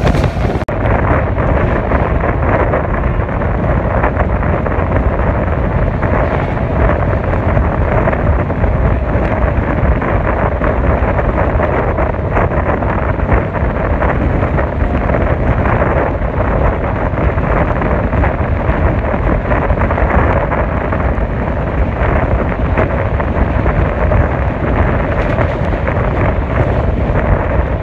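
Shatabdi Express train running at speed: a steady rumble of the wheels and coach under loud wind rushing over the microphone.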